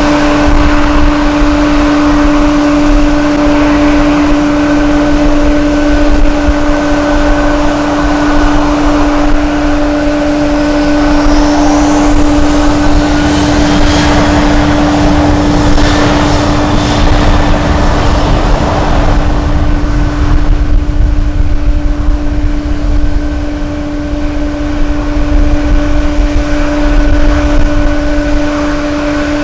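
Airliner jet engines running with a steady hum, swelling into louder jet noise with a brief rising whine around the middle before easing off. Strong wind buffets the microphone.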